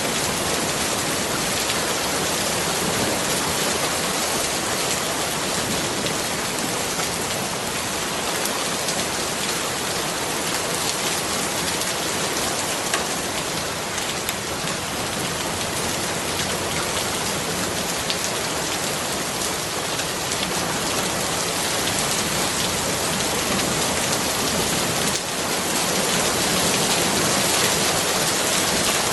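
Steady rain falling and pattering on surfaces, a dense even hiss with many small drop ticks, growing slightly louder near the end.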